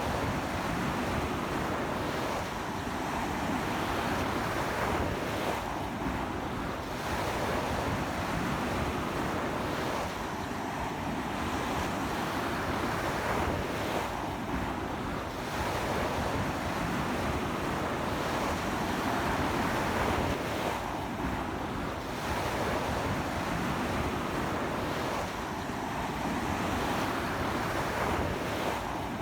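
Sea waves breaking and washing onto a beach in a strong sea wind that buffets the microphone: a continuous rush that swells and eases every few seconds.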